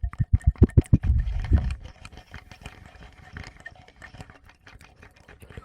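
Fingers tapping and rubbing on a Tascam recorder's microphones: a quick run of soft, deep thumps for the first couple of seconds, then fainter scattered clicks and light touches.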